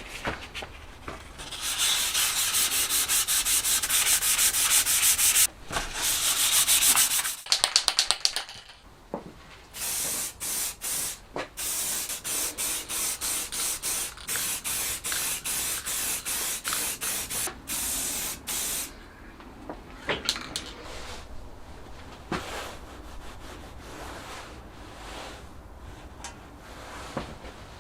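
Hand sanding of a metal part: rapid back-and-forth abrasive strokes, then slower strokes at about two a second, then a quieter stretch with a few light knocks.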